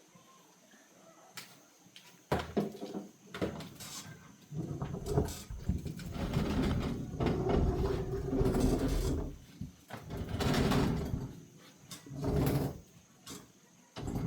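Handling noises: a run of irregular knocks and clatters, mixed with longer scraping or sliding sounds lasting a second or two each.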